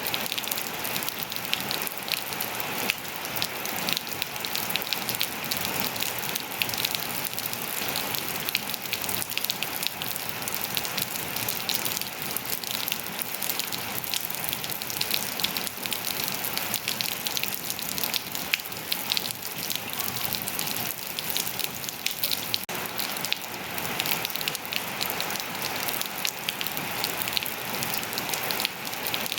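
Steady rain falling and pattering on surfaces, with many individual drop ticks over an even hiss.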